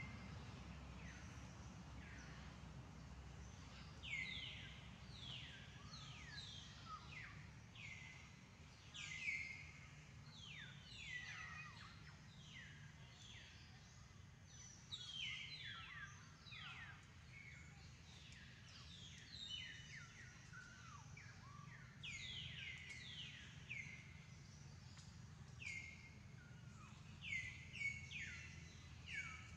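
Faint bird chirps throughout, many short calls each dropping quickly in pitch, some overlapping, over a steady low background hum.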